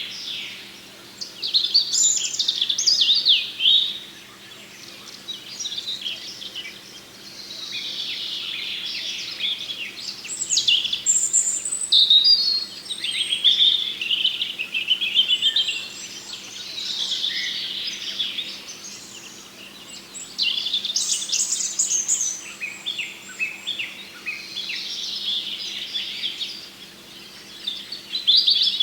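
Small songbirds chirping and singing in repeated high-pitched phrases, each a few seconds long with short gaps between, over a faint steady hum.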